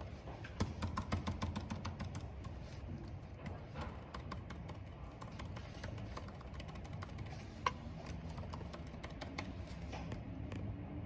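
Typing on a computer keyboard: quick, uneven keystrokes, densest about half a second in, with one sharper key click about two thirds of the way through. Beneath it is a steady low wash of wind and rain.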